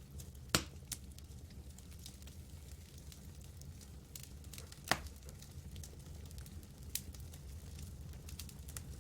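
Campfire burning with a soft, irregular crackle and three louder sharp pops of burning wood: one about half a second in, one near five seconds and a smaller one near seven seconds.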